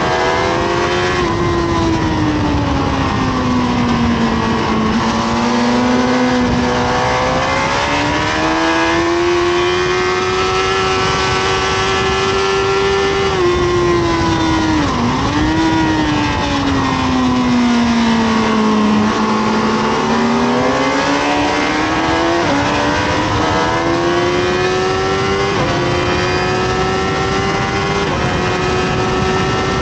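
Honda CBR1000RR (SC57) inline-four engine at track pace, heard from on board: the engine note sweeps down as the bike slows and climbs again as it accelerates, twice, with a brief sharp dip in the middle and small steps in pitch near the end, over a steady rushing noise.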